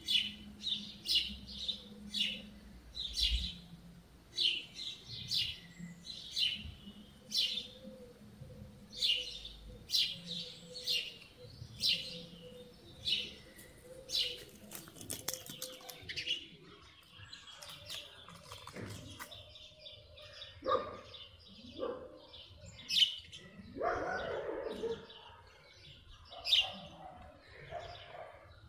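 Songbird chirping: a short high chirp repeated about once or twice a second, then more varied, scattered calls in the second half. There is a lower, louder call about three-quarters of the way through.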